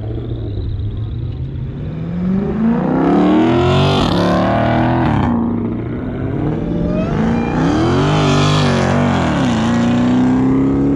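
A car engine revving hard twice, its pitch climbing and falling with each rev, with a sudden drop in pitch partway through the first.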